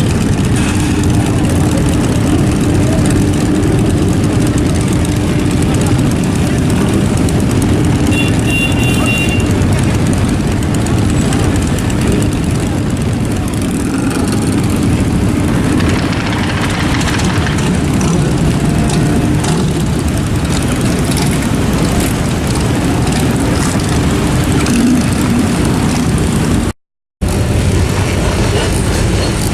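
Vehicle engines running steadily in a loud, continuous din, with voices in the background; the sound cuts out for a moment near the end.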